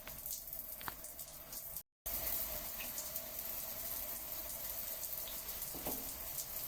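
Running water flowing steadily, with a brief drop-out to silence about two seconds in.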